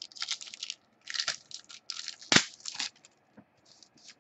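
Trading cards being handled: short, high scraping rustles in several bursts as cards slide against one another, with one sharp click about two and a half seconds in.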